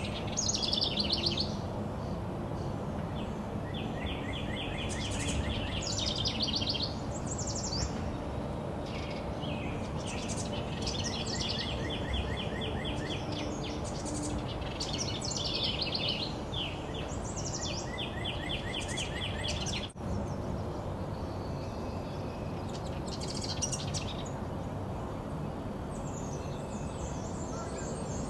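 Wren song: repeated phrases of rapid, evenly spaced trilled notes alternating with brighter chattering bursts, over a steady outdoor background hiss.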